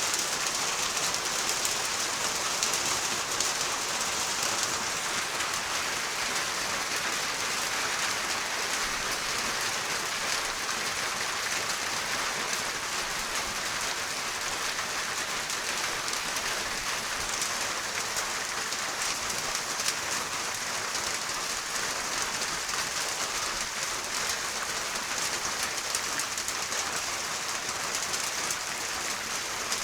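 Rain falling steadily: an even hiss dotted with the ticks of many separate drops.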